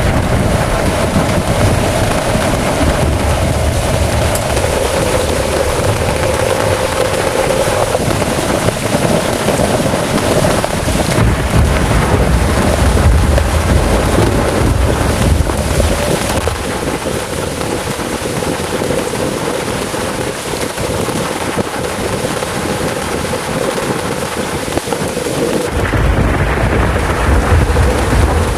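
Heavy rain pouring down in a violent rainstorm, with strong wind. Low rumbling surges come and go, near the start, in the middle and again near the end.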